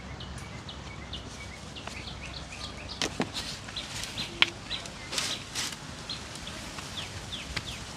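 Small birds chirping outdoors: short, high, falling chirps repeating every fraction of a second, with a few sharp clicks in the middle.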